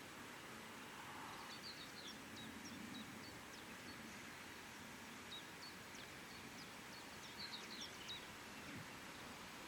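Faint bird chirps, short high calls coming in two clusters, over a steady outdoor background hiss.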